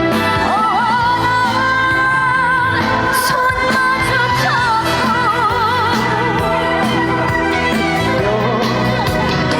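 Female trot singer singing live over musical accompaniment, holding long notes with a wavering vibrato.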